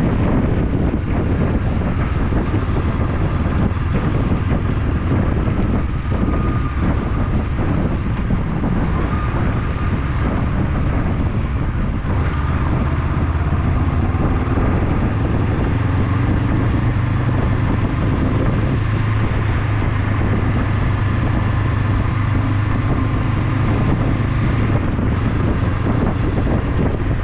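Motorcycle engine running steadily under way, heavily buffeted by wind noise on the action camera's microphone, with a deep, even rumble.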